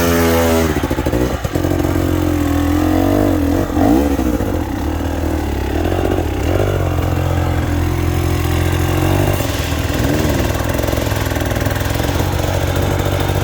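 Two-stroke dirt bike engine running at low revs, with the throttle blipped a few times so the pitch rises and falls.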